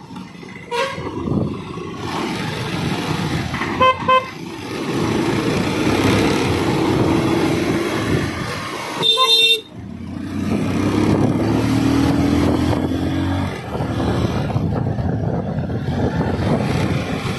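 A Bajaj Pulsar 220 motorcycle being ridden, its engine under wind and road noise, pulling up in pitch as it accelerates midway through. Vehicle horns honk over it: a short toot about a second in, a quick double honk around four seconds in, and a longer, loud blast just before the engine pulls.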